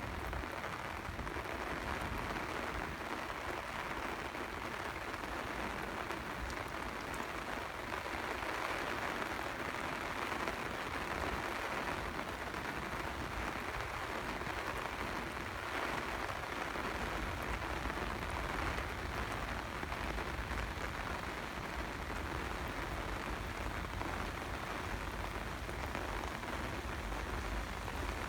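Steady rain falling, an even, continuous patter, with a low rumble underneath.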